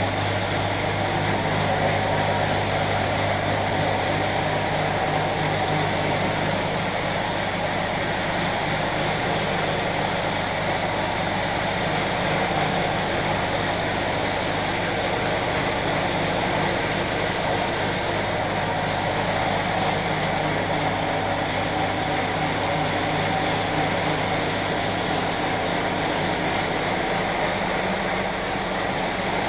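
Steady hiss of air equipment over a constant machine hum, typical of a compressed-air paint spray gun at work. The highest part of the hiss drops out briefly several times.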